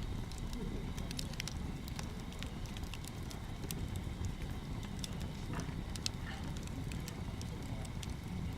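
Bonfire crackling, with irregular sharp snaps and pops over a steady low rumble.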